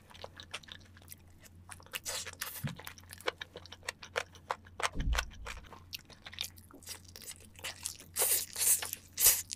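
Close-miked eating of glazed fried chicken dipped in cheese sauce: chewing with many crisp crunches, and the loudest crunches near the end as a fresh bite is taken.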